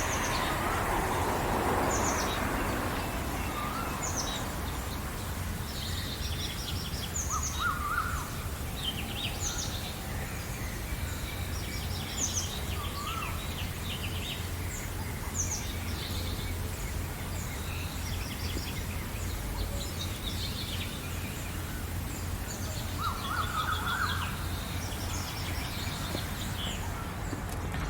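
Several birds singing and chirping at once: quick high trills and short chirps overlap throughout, with a few lower whistled calls among them. A steady low rumble runs underneath, and a broader rush of noise fades out over the first couple of seconds.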